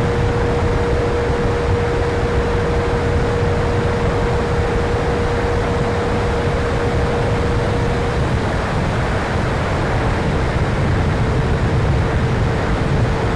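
Electric ducted-fan RC jet running in flight, heard under heavy wind noise on the microphone. A steady tone holds, then dips slightly in pitch about eight seconds in.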